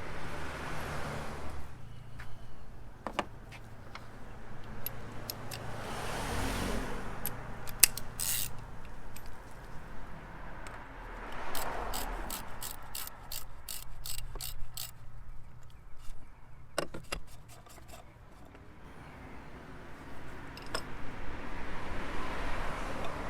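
Hand tools and metal parts being handled while the oil filter cap on a 3.6L Pentastar V6 is worked off. There are scattered clicks and knocks, a run of quick, regular clicks about halfway through, and some rubbing and rustling over a faint low hum.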